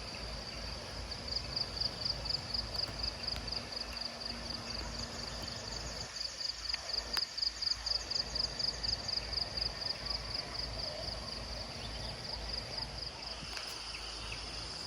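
An insect calling in a rapid, even trill of high chirps, about four a second.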